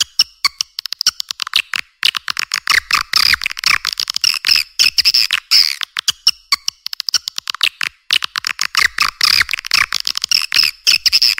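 Swiftlet calls in a recorded lure track: dense, rapid high-pitched chirping and clicking twitter, with brief gaps about two seconds and eight seconds in.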